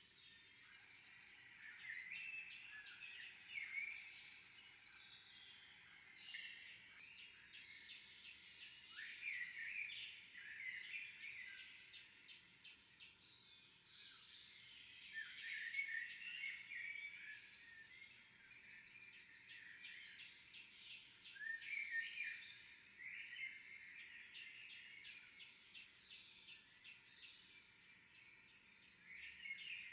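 Several small songbirds singing together. One repeats a short song that falls in steps from a high note, four times. Under it runs a long, steady, high trill.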